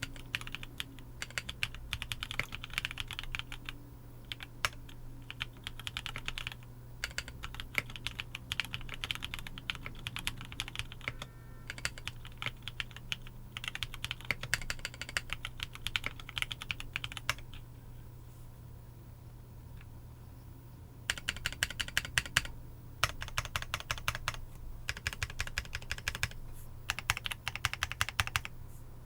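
GEONWORKS Frog TKL mechanical keyboard with linear 'Cherry cream' switches (Cherry MX Black housings, Kailh Cream stems) being typed on in quick runs of keystrokes. The typing pauses for about three seconds past the middle, then resumes.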